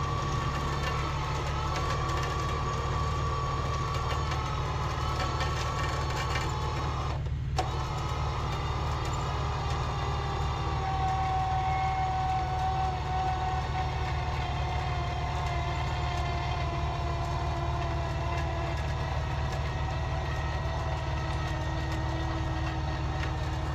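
Truck engine running steadily under a low rumble, with a high drivetrain whine that slowly falls in pitch in the second half. The sound drops out briefly about a third of the way through.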